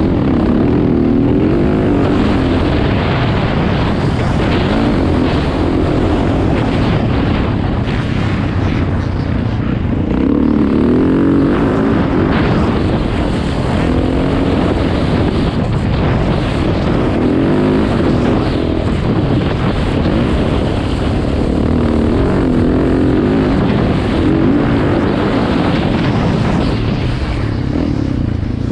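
Motocross dirt bike engine running hard, its pitch rising and falling over and over as the throttle opens and closes, with wind noise on the microphone.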